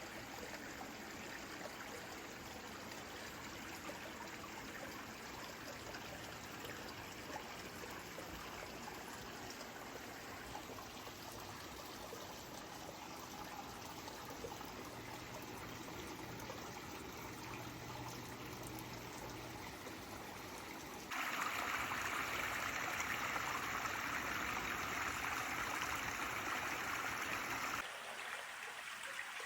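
Small landscaped waterfall water feature, water cascading and splashing steadily. About two-thirds of the way in the sound abruptly becomes louder and brighter for several seconds, then drops back just before the end.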